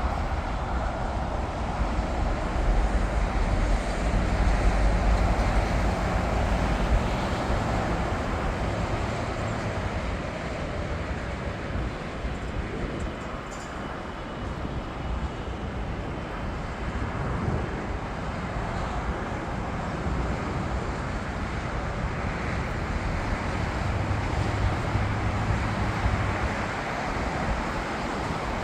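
Jet airliner engine noise, a steady rumble with a broad rushing hiss, loudest about four to six seconds in, then easing and building again. Wind buffets the microphone.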